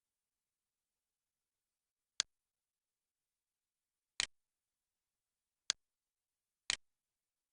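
Four separate sharp clicks a second or two apart, with silence between them.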